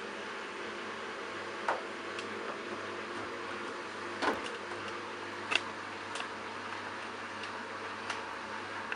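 Candy Bianca washing machine running early in its delicates cycle: a steady hiss with a low hum, and a few light clicks and knocks at irregular moments.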